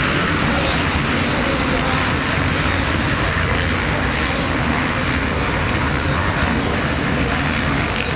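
Motocross bike engines running hard on the race track, a loud, steady noise that does not let up.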